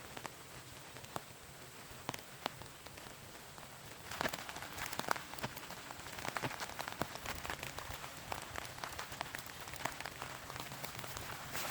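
Rain falling, with separate drops striking a surface as sharp clicks. It grows heavier and denser about four seconds in.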